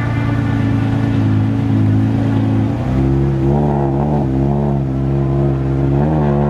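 Lamborghini Murciélago V12 engine running at idle; about three seconds in the idle steps up and wavers with a few light throttle blips, with one more blip near the end.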